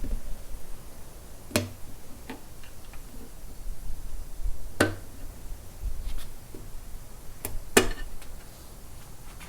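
Scattered sharp metallic clinks and knocks of hand tools and loose parts on an engine block, about six in all, with two close together near the end being the loudest.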